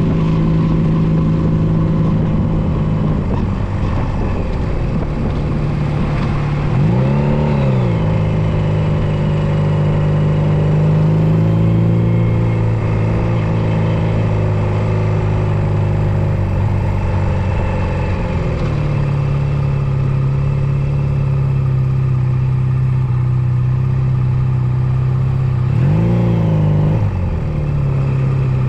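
Honda Nighthawk 250's air-cooled parallel-twin engine running at a steady cruise under way. The revs rise and fall quickly twice, once about a quarter of the way in and again near the end.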